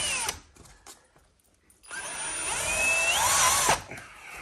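Power drill driving a screw into the insulated garage door: the motor winds down just after the start, then runs again about two seconds in, its whine rising in pitch before it stops abruptly. The screw ends up set a little deeper than intended.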